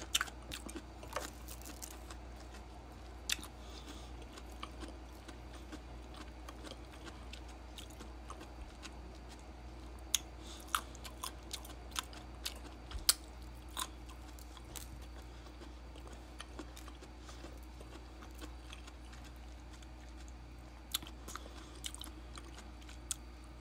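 Close-up eating sounds of a person biting and chewing sliced mango: irregular soft clicks and smacks, a few sharper ones, over a low steady hum.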